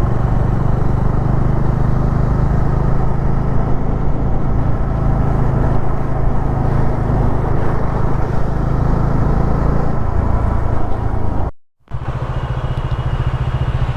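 Motorcycle engine running steadily under way, a constant low hum with road noise. The sound cuts out for a split second about three-quarters of the way through, then carries on.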